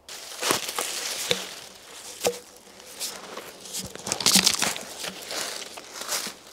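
Dry leaves and dead twigs on the forest floor rustling and crunching, with irregular sharp snaps and cracks of deadwood.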